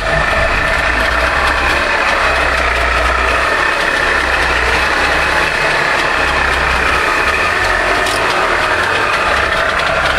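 Trabant's air-cooled two-stroke twin-cylinder engine idling steadily just after starting, its first run in months following repairs.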